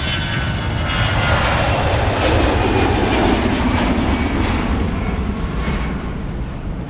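Airplane flying past: engine noise swells to a peak a few seconds in, then fades away, growing duller as it recedes.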